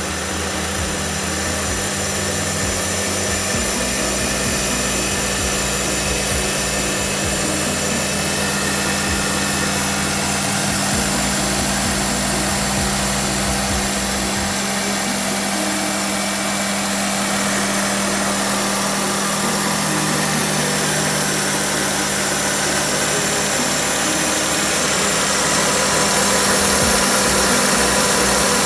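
Daihatsu Naked's three-cylinder EF engine running steadily with a constant hum, freshly fitted with a new timing belt and water pump.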